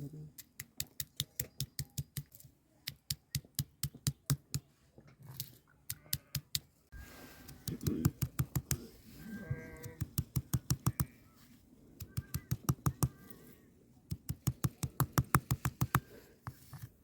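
Rapid runs of sharp taps or knocks, several a second, broken by short pauses.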